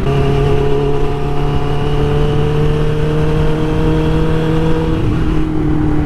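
Suzuki GSX-R600 inline-four motorcycle engine pulling under load, its pitch rising slowly, with a change in its note about five seconds in, over heavy wind noise on the helmet microphone.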